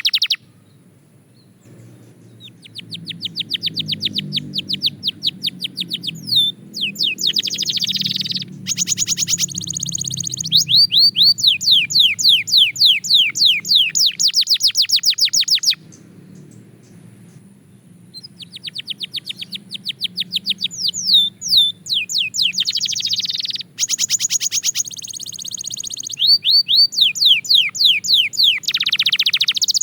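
Belgian canary singing in rapid trills: long phrases of fast, evenly repeated downward-sweeping whistled notes, changing tempo from phrase to phrase, with a pause of about two seconds near the start and another around the middle. A faint low hum runs underneath.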